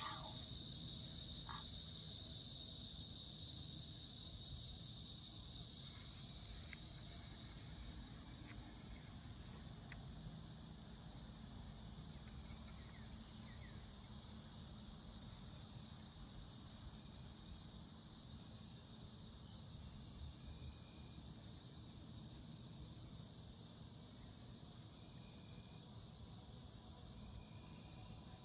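Steady high-pitched chorus of insects, louder for the first few seconds and then quieter, over a low rumble, with a few faint crackles from a campfire.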